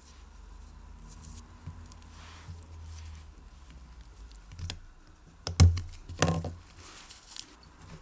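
Light clicks and taps of small watch parts and tools being handled on a workbench during watch reassembly. There are two louder sharp knocks a little after halfway.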